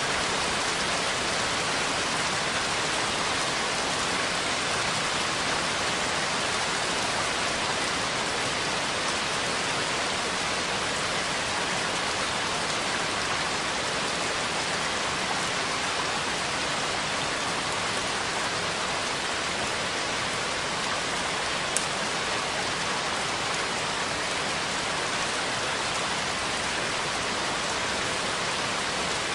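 Steady rain falling, an even hiss of drops without a break, with one brief sharp click about 22 seconds in.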